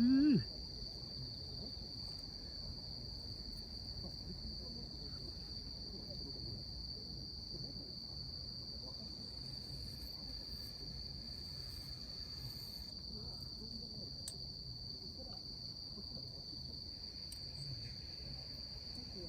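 Steady, unbroken high-pitched insect song, like crickets, over a low background hum. A brief, loud vocal sound rises in pitch at the very start.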